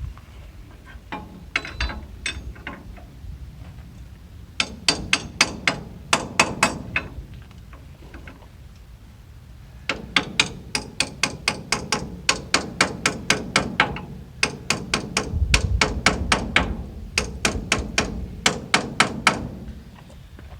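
Runs of quick hammer blows on metal, about three to four a second, in three bursts with pauses between, struck to break seized front-end parts loose.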